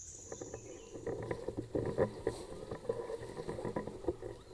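Irregular rustling and crackling of leaves and undergrowth being moved through, busier from about a second in.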